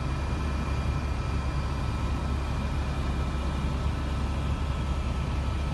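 Helicopter in flight: a steady low drone of engine and rotor, with faint steady high tones above it.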